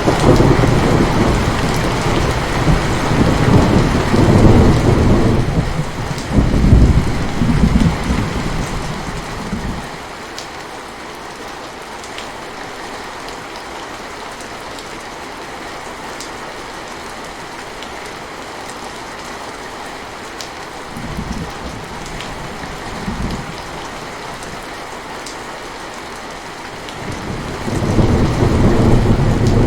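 Steady rain falling, with rolling thunder rumbling through the first ten seconds or so. Two short faint rumbles come a little past the middle, and thunder builds again near the end.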